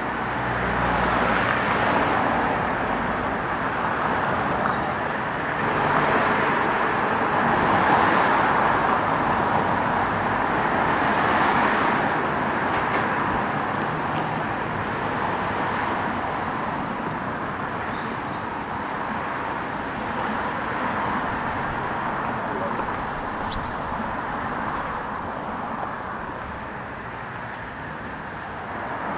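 Road traffic on a city street: a steady rush of cars passing, swelling louder several seconds in and easing off toward the end.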